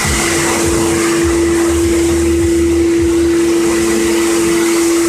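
High-pressure washer running with a steady whine, its jet hissing as it sprays water.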